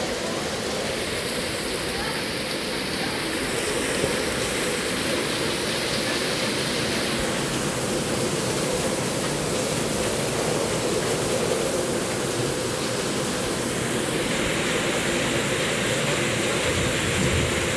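Heavy downpour: a steady, unbroken hiss of pouring rain.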